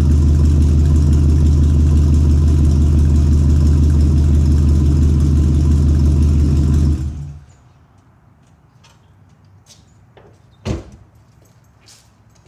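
2001 Chevy Silverado 2500HD's 6.0-litre V8 idling steadily through true dual Magnaflow mufflers with no catalytic converters, then switched off about seven seconds in. A few faint clicks and one sharp knock follow.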